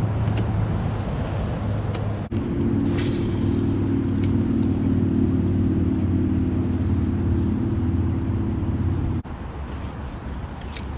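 A steady engine drone, a low hum with an even pitch. A higher layer joins about two seconds in. About nine seconds in the sound breaks off sharply and goes on quieter.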